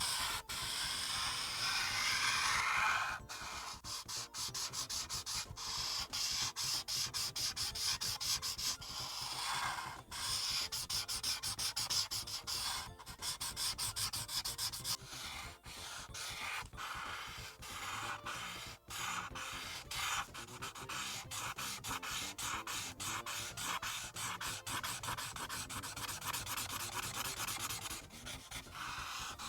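Felt marker nib rubbing on paper in quick, even back-and-forth strokes as a large area is coloured in.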